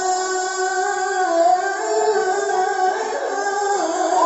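A man's voice reciting the Qur'an in the melodic tilawah style, holding one long ornamented note that shifts slowly in pitch, a drawn-out vowel between two words of the verse.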